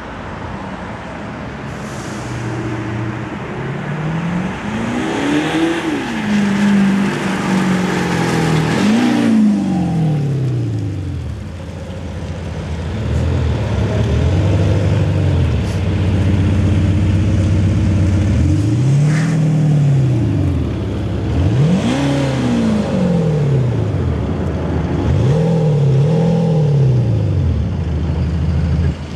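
Skoda Octavia RS 2.0 TDI diesel with an Eberspächer active sound exhaust actuator, revved repeatedly: the engine note rises and falls in a series of swells, several in a row near the end.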